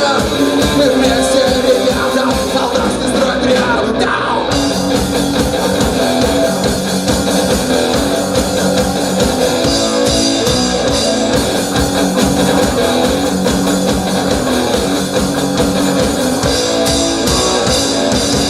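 Rock band playing an instrumental passage of the song, with electric guitar over a steady drum beat.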